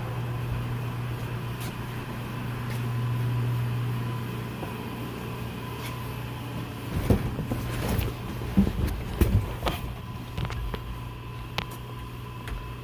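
A Dodge D-100's small-block V8 just started and running at a steady idle, a little higher in the first few seconds before it settles. From about seven seconds in, irregular knocks and clicks sound over it.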